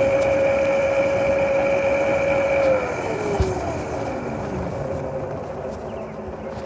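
Motorcycle engine running at a steady high whine, then winding down in pitch over about two seconds as the bike slows. There is rushing wind noise throughout.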